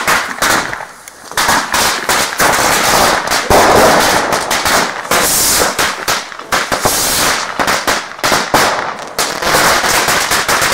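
Firecrackers going off in a rapid, irregular string of sharp bangs, several a second, with a brief lull about a second in.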